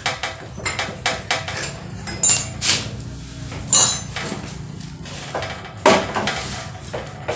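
Metal tools and engine parts clinking and knocking irregularly as a motorcycle engine is being dismantled, with a few louder metallic knocks near the middle.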